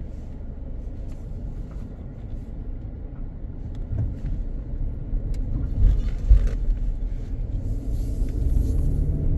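A car on the move: a low rumble of engine and road noise that grows louder in the second half.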